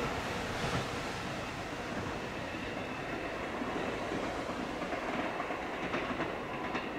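A train of unpowered new 521-series EMU cars rolling away over the rails, wheels clicking now and then over rail joints, the running noise fading slowly as it recedes.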